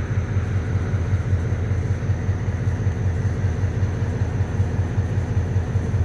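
EMD MP15 diesel switcher locomotive engine running with a steady, pulsing low rumble, just after a hard cold start on weak batteries.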